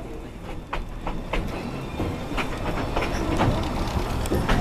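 Narrow-gauge passenger train car rolling along the track: a steady low rumble with irregular clicks and clanks of the wheels over the rails, a few louder ones near the end.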